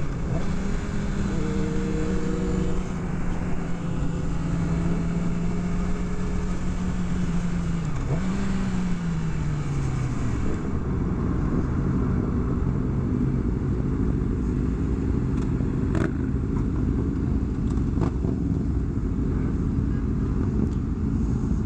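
Sport-bike motorcycle engine running at a steady speed under way, with a constant low rumble of wind and road noise; about eight seconds in its pitch dips and falls away as the throttle comes off, then it settles into a steady pitch again.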